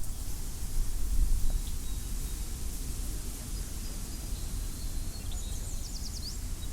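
Wind over a wheat field: a steady low rumble with a rustling hiss above it. A small bird calls faintly in the middle and gives a quick run of high chirps near the end.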